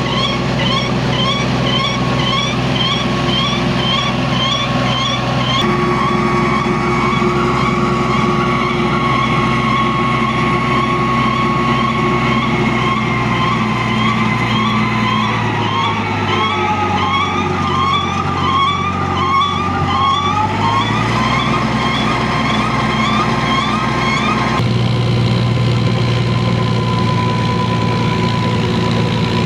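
Tractor engine running under work, with a steady high whine and a fast repeating chirp about three times a second over it. About halfway through, the engine pitch sags for several seconds as it takes load, then picks back up.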